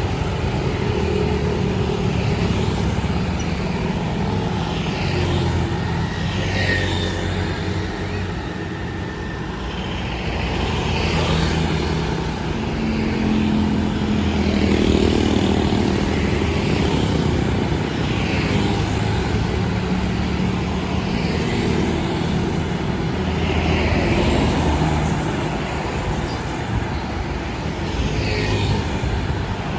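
City street traffic: a steady run of engines, with cars and other vehicles passing one after another every few seconds.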